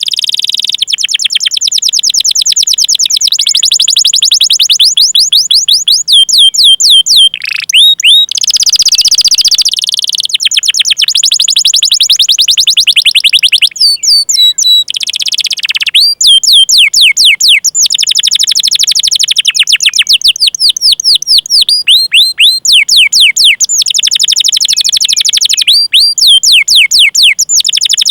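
Domestic canary singing long rolls of rapid, high-pitched 'cuit' chirps, about a dozen a second, in long runs broken by a few short pauses and some lower falling notes.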